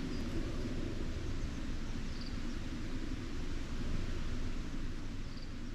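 Steady low rumbling background noise of an outdoor campsite, with two faint brief high chirps about two seconds in and near the end.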